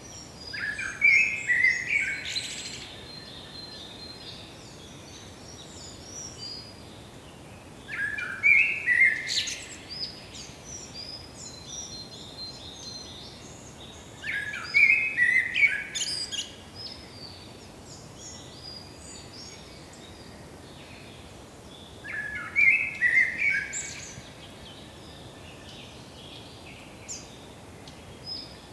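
A songbird singing the same short phrase of about two seconds over and over, once roughly every seven seconds, over a steady background hiss.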